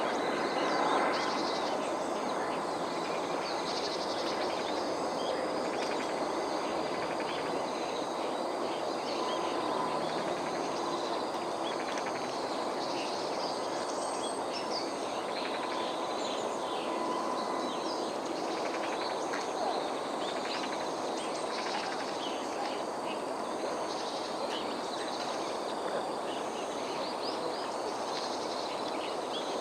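Outdoor ambience: a steady background hiss with many scattered short bird chirps and calls throughout.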